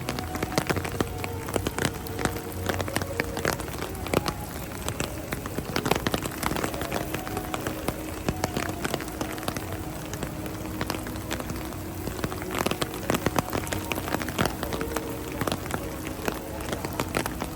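Heavy rain falling, with a steady wash of noise and many sharp drops ticking close by.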